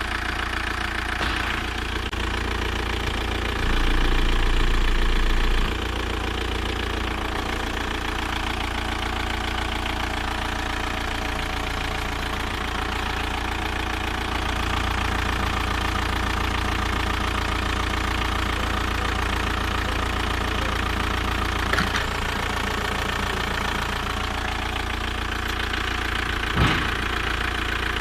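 Volkswagen 1.9 TDI AFN four-cylinder turbodiesel running steadily at idle with its diesel clatter. It is briefly louder about four seconds in, and two short sharp knocks come later, the second near the end.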